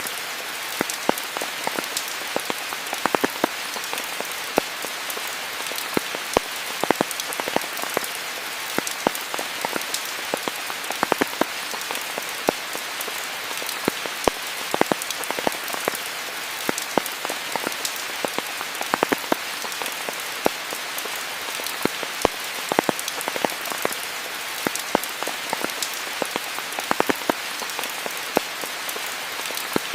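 Steady rain falling: an even hiss with many sharp, irregular drop impacts close by.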